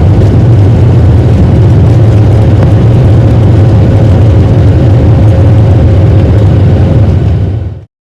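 Boeing 737-900 jet engines running loud and steady as heard inside the cabin during the takeoff roll: a deep rumble with a faint steady hum. The sound cuts off abruptly near the end.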